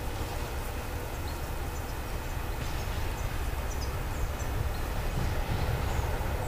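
A train led by Class 47 diesel locomotive 47105 approaching from a distance: a low rumble that grows slightly louder towards the end. Birds chirp briefly now and then.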